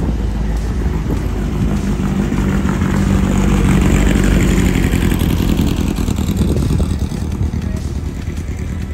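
A car engine passing close by at low speed, growing louder until about four seconds in and then fading.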